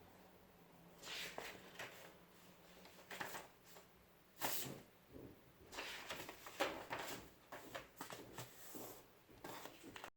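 Irregular rustling and light knocks of things being handled, in short bursts about every half second to a second, the loudest about four and a half and six and a half seconds in.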